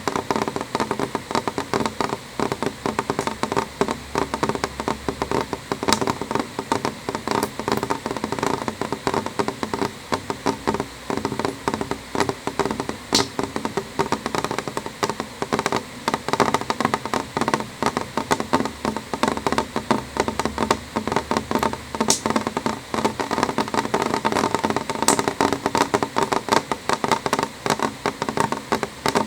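Raindrops hitting a window pane: a dense, uneven run of small ticks, with a sharper click now and then.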